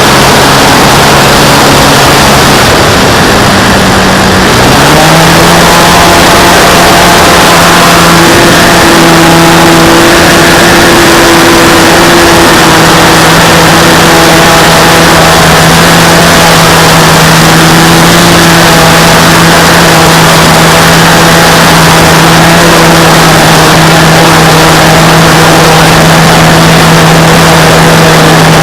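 RC model airplane's motor and propeller running at a steady pitch, heard through a camera mounted on the plane, with heavy wind rush. About four and a half seconds in, the pitch rises from a lower setting and then holds.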